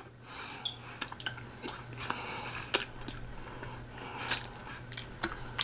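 Close-miked eating: irregular wet mouth clicks and lip smacks from chewing, about a dozen sharp snaps spread unevenly, over a faint steady low hum.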